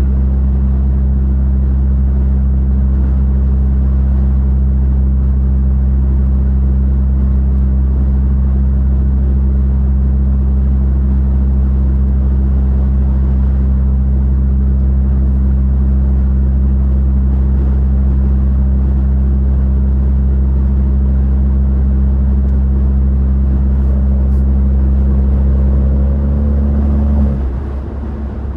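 Straight-piped, catless BMW 540i's B58 turbocharged inline-six running at a steady cruise with a constant low exhaust drone. Near the end the drone changes pitch and gets quieter, as if the throttle is eased off.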